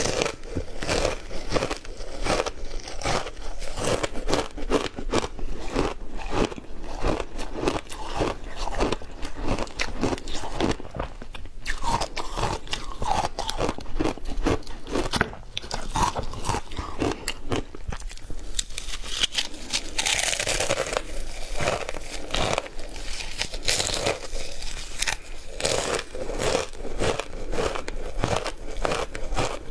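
Close-up crunching and chewing of frozen matcha ice, a fast run of crisp bites and grinding crunches, several a second, broken by a few short pauses.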